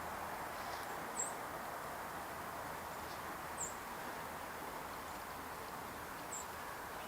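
Three short, very high chip notes from a small bird, spaced a couple of seconds apart, over a steady outdoor hiss.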